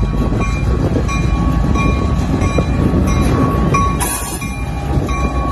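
Passenger train moving along the track: a heavy, steady rumble with a high ringing tone that repeats at an even pace, about every 0.7 s.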